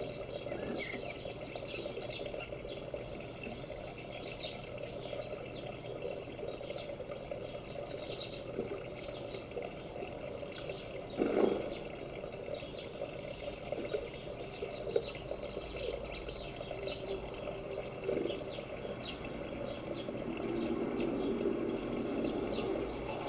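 Outdoor garden ambience: small birds chirping in short, scattered calls throughout, over a steady low rush of noise. One brief, louder noise comes about eleven seconds in.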